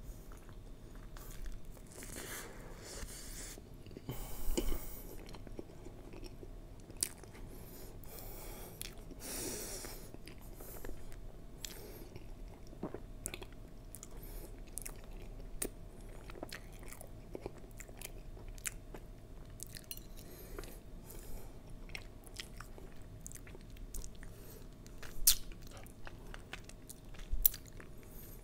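Close-up eating sounds: a man chewing a soft brazo de mercedes (meringue roll with custard filling), with many small wet mouth clicks and smacks. Near the end come a few louder smacks as he sucks his fingers.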